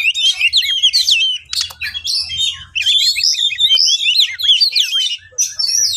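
Oriental magpie-robin (kacer) singing a fast, unbroken run of varied whistles and rising and falling sweeping notes.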